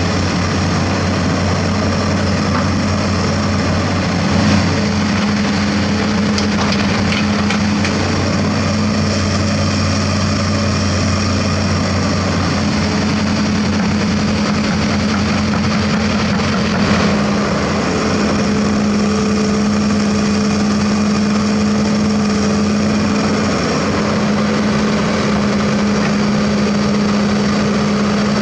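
Shantui SD16F crawler bulldozer's turbo diesel running steadily at working revs, with a deep engine drone and a faint high turbo whistle. A few light knocks come through.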